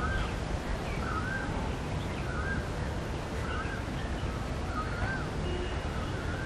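A bird calling over and over, a short rising-and-falling note about once a second, over a steady low background rumble.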